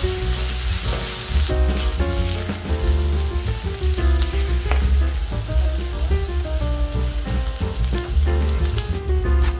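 Pork intestine (doraechang) and onion slices sizzling on a hot coated griddle pan and being stirred with a spatula, with a few clicks. The sizzle is strongest in the first second and a half, then eases.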